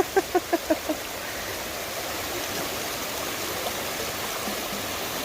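Small stream flowing steadily over rocks. In the first second, a short run of laughter, a few quick fading pulses, rises over the water.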